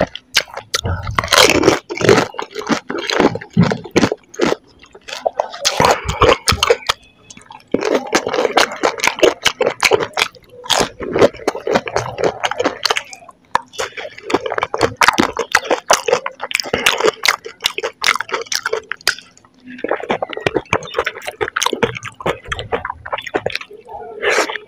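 Close-miked wet chewing and squishing of golgappa, puri shells stuffed with sauce and toppings, with many sharp wet clicks from the mouth in stretches broken by short pauses.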